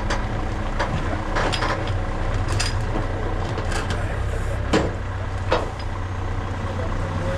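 Backhoe loader's diesel engine running steadily, with a string of sharp metallic knocks and clanks at irregular intervals.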